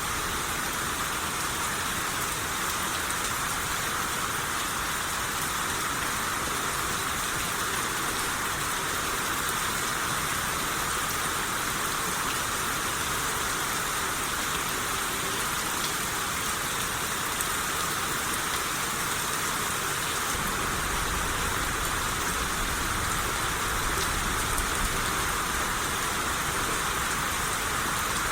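Steady rain shower falling, an even hiss with faint scattered drop ticks. A low rumble joins in about two-thirds of the way through.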